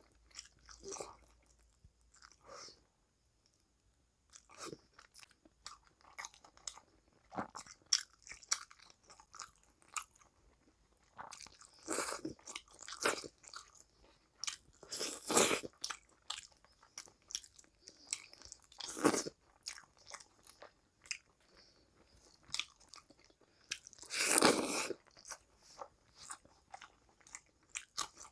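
A person chewing and biting food close to a clip-on microphone: wet mouth sounds and crisp crunches, with a handful of louder crunching bursts spread through.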